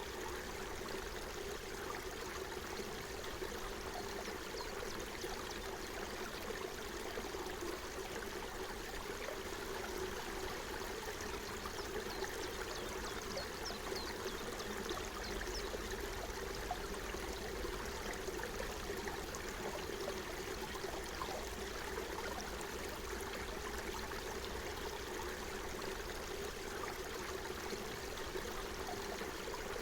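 Forest stream flowing and trickling over stones: a steady babble with many small splashes and gurgles.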